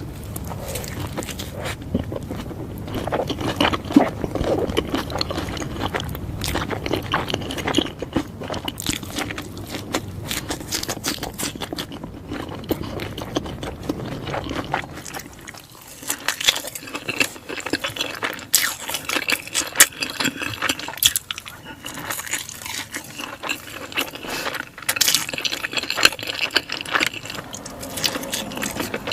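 Close-miked eating of a burger and fries: chewing with many small crunches and clicks. About halfway through the fuller, deeper sound drops away and lighter, crisper crackling is left.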